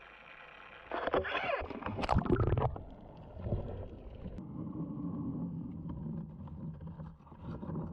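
Splashing about a second in as a diver goes into the sea, then a low, muffled rumble with gurgling, as heard underwater.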